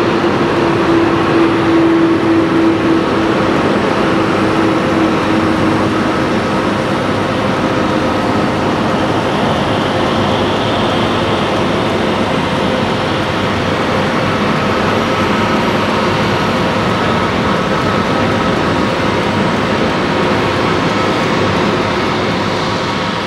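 Jet engines of a Lufthansa Boeing 747-400 running at high thrust, a steady loud roar with a whining tone that slowly drops in pitch. It starts to fade right at the end.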